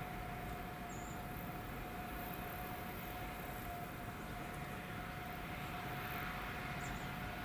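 Train heard from trackside: a steady whine at one pitch over a low rumble, unchanging throughout.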